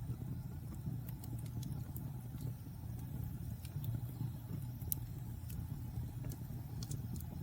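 Wood fire burning in a fireplace: a steady low rumble with scattered sharp crackles and pops, one louder pop about five seconds in.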